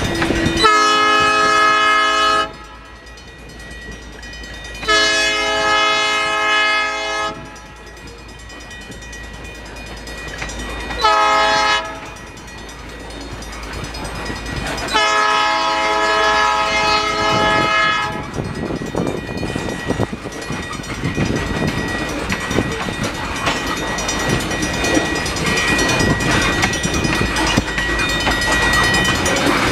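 Locomotive air horn sounding the grade-crossing signal: two long blasts, one short and one long. The train then passes over the crossing with rumbling and clickety-clack of wheels on the rails, while a mechanical crossing bell rings steadily.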